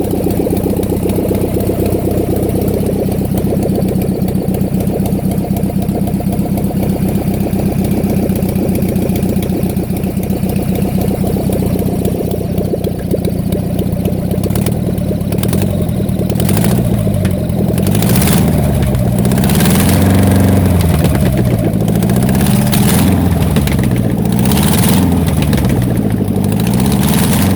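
Air-cooled V4 engine from a ZAZ-968M Zaporozhets, running out of the car after standing about ten years. It idles steadily at first, then from about halfway is revved up and down over and over, each rev bringing a burst of harsher, hissier noise.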